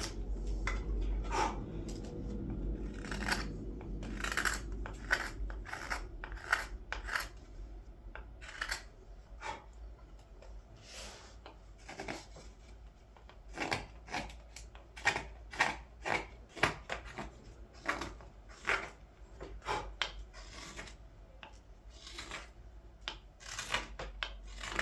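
Blade strokes slicing and scraping into green wood as a ladle bowl is hollowed out: a long run of short, irregular cuts, one to three a second.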